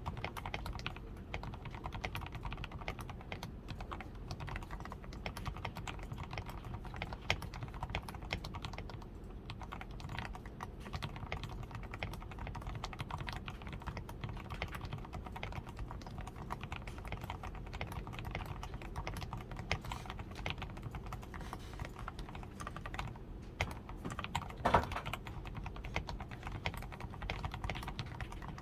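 Continuous typing on a DAREU A87 Pro mechanical keyboard, fully lubed with Krytox 105, with a tape-modded PCB, Poron-reinforced switches, lubed stabilizers and XDA keycaps: a steady, uneven stream of keystrokes, with one louder stroke near the end.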